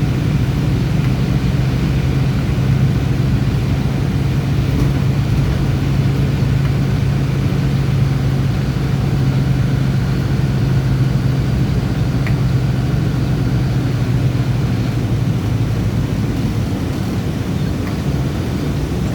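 Bus engine running with a steady low hum under road noise while driving; the hum eases slightly near the end.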